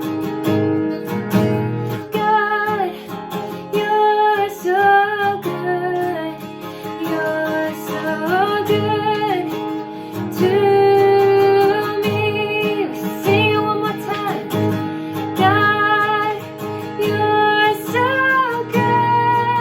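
Worship song played on strummed acoustic guitar, with a voice carrying a gliding melody over it.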